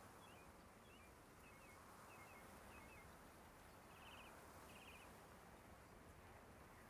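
Near silence in open country with faint birdsong: a run of short high chirps, mostly in pairs, for the first three seconds, then two short buzzy trills about four and five seconds in.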